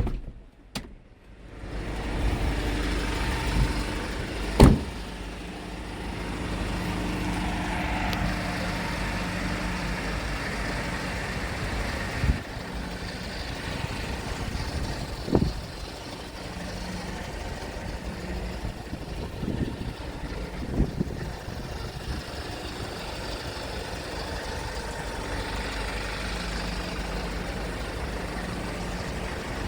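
2014 Kia Bongo 3 diesel truck engine idling steadily, with a few sharp clicks or knocks.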